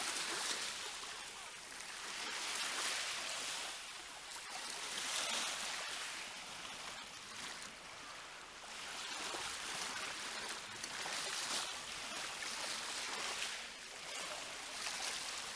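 Sea waves washing onto the shore, the hiss swelling and falling back every two to three seconds.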